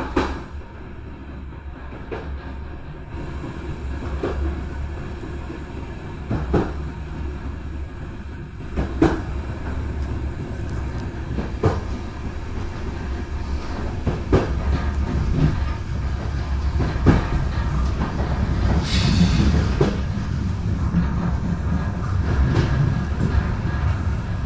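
Passenger train running on a mountain railway, heard from the carriage's back door: a steady low rumble that slowly grows louder, with wheels knocking over rail joints every two or three seconds. A short high hiss comes about nineteen seconds in.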